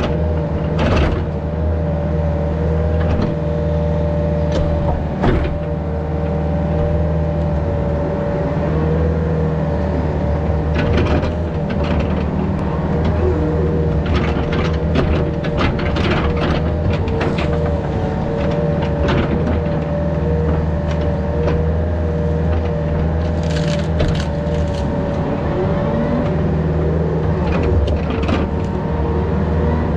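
Yanmar VIO50 mini excavator's diesel engine running steadily, with scattered cracks and knocks throughout.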